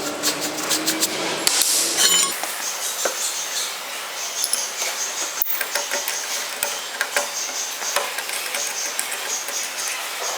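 A small power tool runs for about the first two seconds, its pitch rising slightly, and then cuts off. Light scattered clicks, taps and clinks of workshop handling follow.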